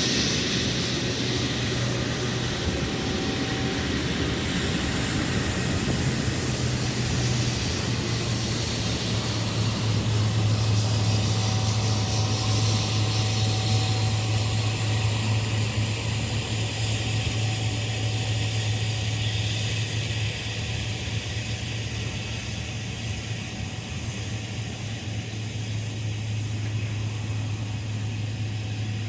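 Jet airliner engine noise, a broad roar that slowly fades as the aircraft moves away, over a steady low hum.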